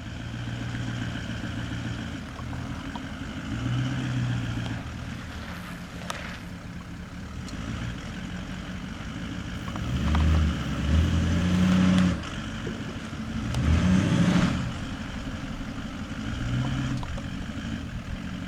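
Toyota Land Cruiser 200 series twin-turbo V8 diesel engine running, its note swelling louder in a few surges about halfway through.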